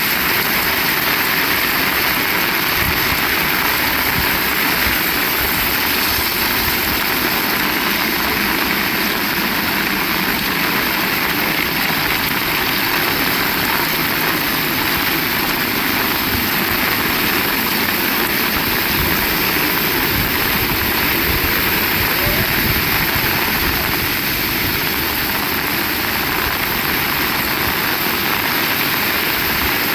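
Heavy rain pouring steadily, with strong wind gusting against the microphone as uneven low rumbles.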